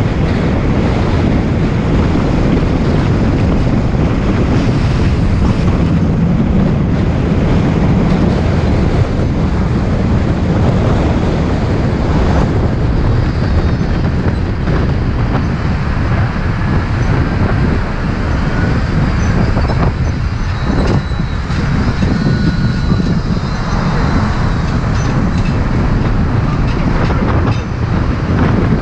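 Loud, steady rumble of a moving bus, heard from aboard: engine and road noise.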